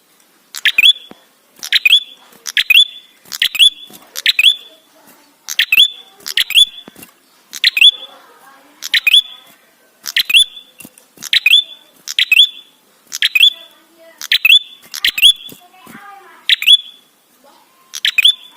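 Prenjak (red-headed tailorbird) calling: a fast series of loud, sharp chirps, each a quick downward-slurred note, repeated about every two-thirds of a second without a break.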